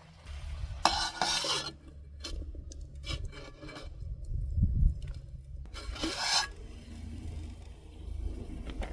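Two short scraping or rubbing sounds, each under a second, about a second in and about six seconds in, with a few light clicks between them over a low steady rumble.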